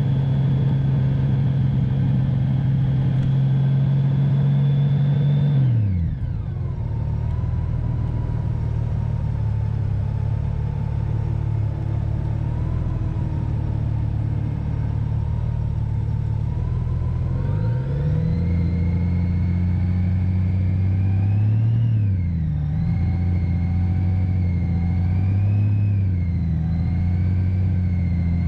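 Touring motorcycle engine running while riding downhill, heard from the saddle. Its note holds steady, falls sharply about six seconds in, climbs again near eighteen seconds, then rises and falls.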